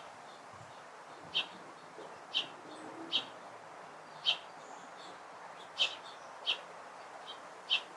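A bird's short, sharp chirps, about seven single notes spaced irregularly around a second apart, over faint outdoor background.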